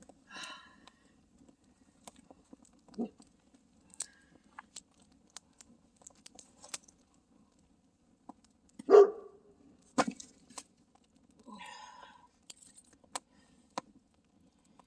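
Campfire crackling, with scattered sharp pops and snaps over a faint steady hiss. There is one short, loud sound about nine seconds in.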